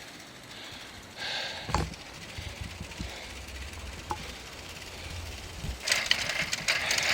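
Noise of boarding a city ferry: a single thump about two seconds in, a low rumble, then a burst of rattling and clatter near the end.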